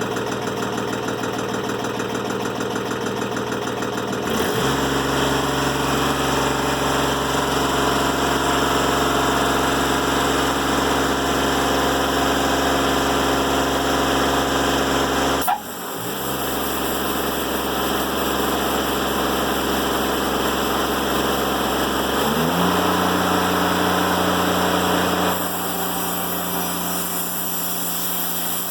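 Timberking 1400 bandsaw mill running, its engine settling lower in pitch and louder about four seconds in as the band blade bites into a black locust log. A sharp click comes about halfway through. Near the end the engine pitch rises again and the cutting noise falls away.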